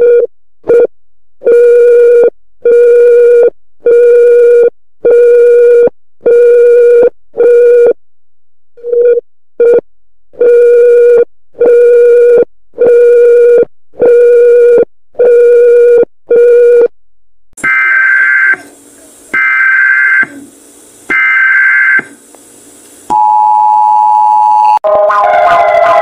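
Fan-made Emergency Alert System style alarm made of synthetic tones: a low electronic beep repeated about once every 0.8 s, broken briefly about halfway through. Three higher buzzing tones follow about a second apart, then a steady tone, and a falling siren-like wail starts near the end.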